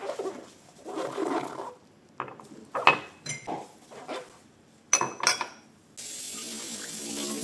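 Dishes and glasses clinking against each other in a kitchen sink, five or so sharp clinks that ring briefly. About six seconds in, the tap comes on and water runs steadily.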